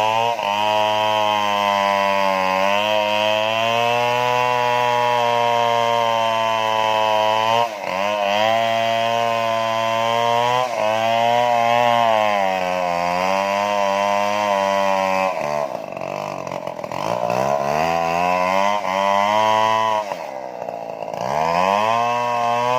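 Stihl chainsaw running at high revs while cutting the tree, its pitch wavering under load. Its pitch dips briefly a few times, and twice in the second half the revs fall away for a second or two before climbing back.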